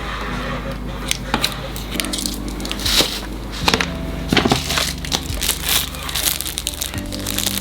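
Crinkling, crackling handling noises with many sharp clicks, over steady background music.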